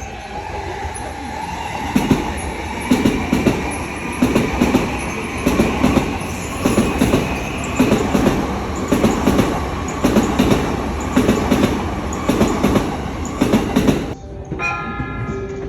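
Train running on rails, its wheels clicking over the rail joints in a steady clickety-clack over a continuous rumble, with a faint whine. It cuts off suddenly near the end, leaving a quieter sound with a few brief tones.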